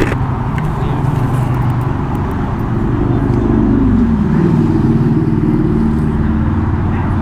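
Motorcycle engine running while riding, its pitch climbing about three seconds in and dropping again a second or so later, over steady wind rush.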